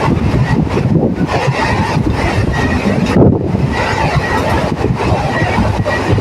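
Suburban electric multiple-unit (EMU) local train running on the rails: a loud, steady noise with faint short high tones coming and going.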